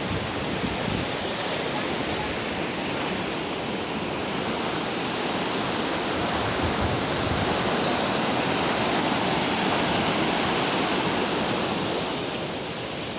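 Floodwater rushing steadily, a continuous roar of moving water that swells somewhat in the middle.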